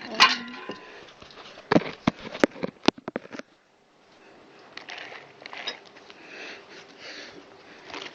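Handling noises around a nitro RC buggy: a sharp click at the start, a quick run of clicks and knocks about two seconds in, then soft rustling, breath-like swells. No engine is running.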